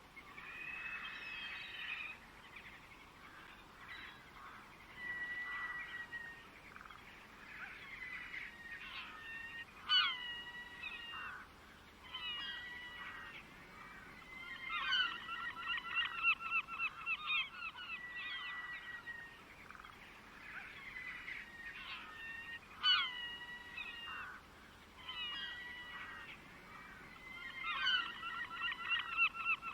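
Songbirds singing in short phrases: clear whistled notes and a rapid, buzzy trill, heard about halfway through and again near the end, with brief pauses between phrases.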